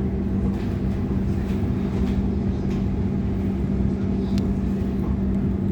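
Interior running noise of a Sydney Trains Waratah A-set electric train under way between stations: a steady low rumble of wheels on rail with a steady hum and a few faint clicks.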